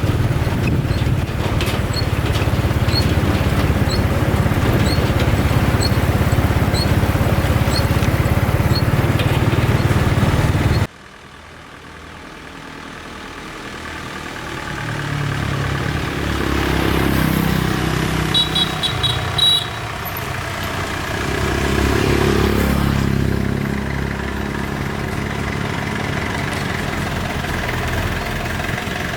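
A vehicle engine running with a steady deep rumble. It cuts off abruptly about eleven seconds in, then an engine sound builds back up, rises and falls in pitch a couple of times, and settles into a steady run.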